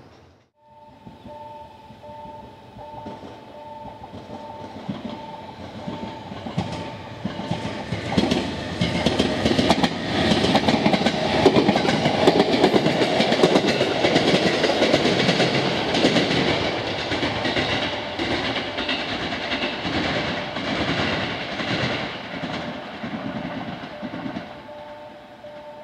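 JR East 701-series electric train passing close by, its wheels clacking over rail joints. The sound builds to a peak in the middle and fades as the train pulls away. A repeating two-note electronic ding sounds through the first several seconds and again at the end.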